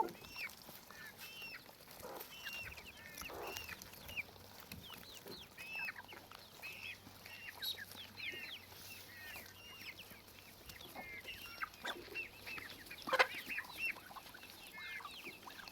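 Chickens calling: a steady run of short, high, overlapping calls and clucks, with one louder call about thirteen seconds in.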